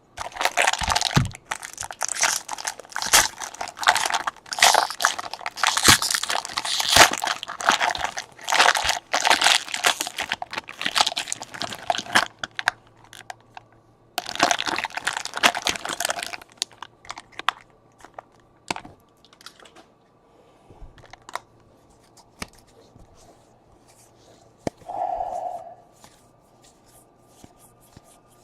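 Baseball card pack wrappers being torn open and crumpled: two long stretches of dense crinkling and tearing, the second starting about 14 seconds in and shorter, followed by scattered light clicks and taps.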